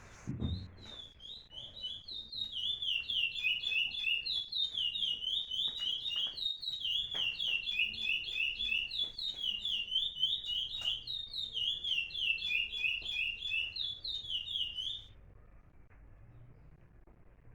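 A songbird singing a long run of fast, repeated high chirps in quick patterned phrases, which stops abruptly near the end.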